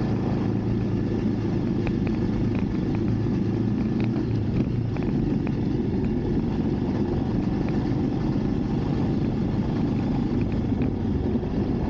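Motorcycle engine running steadily while riding, at a constant speed with no revving.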